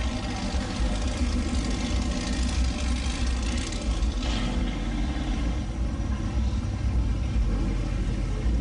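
Car engine idling with a steady, deep exhaust rumble.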